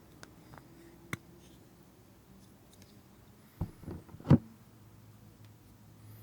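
Slime being handled: one soft click about a second in, then a quick cluster of sharp, deep pops a little before four seconds in, the last one the loudest.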